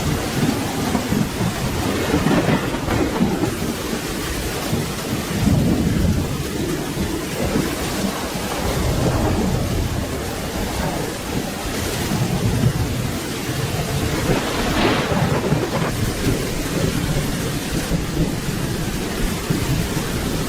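Steady rain with thunder rumbling through it, the low rumble swelling and fading several times.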